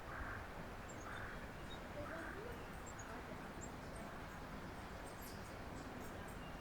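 Backyard ambience at a bird feeder over a steady background hiss: a short, harsh bird call repeats about once a second through the first few seconds. Faint high chirps come and go, with a few sharp high ticks near the end.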